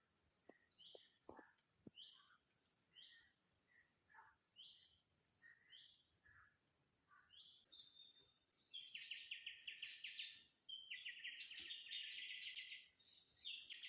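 Wild birds singing: a string of short, falling whistled notes, one every second or less, then about nine seconds in, louder rapid trills of quick, evenly spaced notes that come twice.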